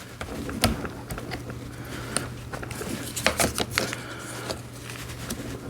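Sharp plastic clicks and knocks as small blinker parts are handled and snap-fitted onto a plastic toy motorcycle's handlebars, with a cluster of clicks about a second in and another past the middle, over a faint steady low hum.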